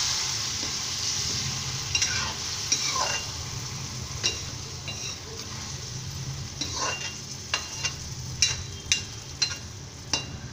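Aloo gobi sizzling in hot oil in a metal kadhai just after water has been added, while a metal spoon stirs the vegetables, clinking and scraping against the pan a dozen or so times.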